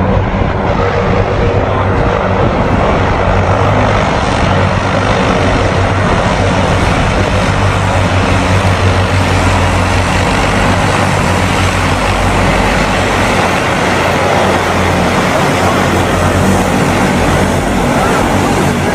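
Steady, loud aircraft noise from a helicopter's engine and rotor, an even rushing sound with a low hum underneath.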